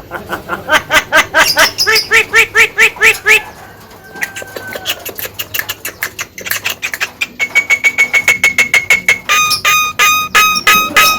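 Javan myna singing: fast runs of repeated ringing notes, about five or six a second. A short whistle comes just past the middle, and another quick run of notes comes near the end.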